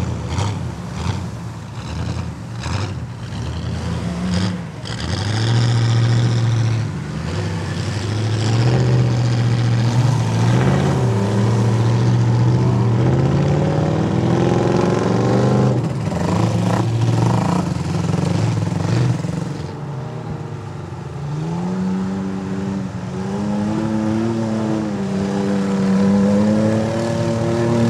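Off-road vehicle engine revving hard while mud bogging, its pitch climbing and falling over long pulls. A quick series of sharp cracks comes in the first few seconds.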